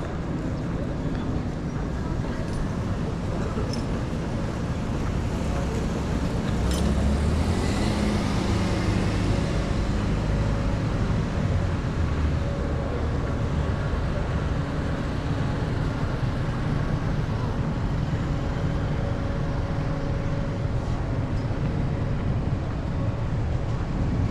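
Street traffic: a steady rumble of road vehicles, swelling as a vehicle passes close about seven seconds in.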